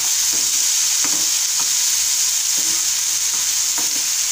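Boiled green peas sizzling steadily in hot mustard oil in a non-stick frying pan while a spatula stirs them, with a few short scrapes and taps of the spatula against the pan.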